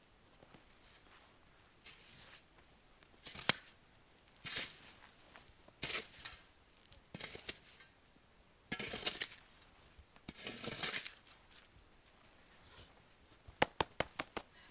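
Handling noises: several short bursts of rustling or scraping, then a quick run of about six sharp clicks near the end.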